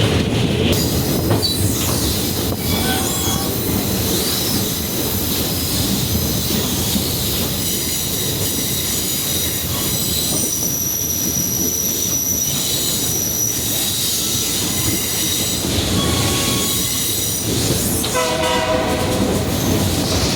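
Passenger train's steel wheels squealing against the rails, several high thin squeals held over the steady rumble and clatter of the cars rolling along the track.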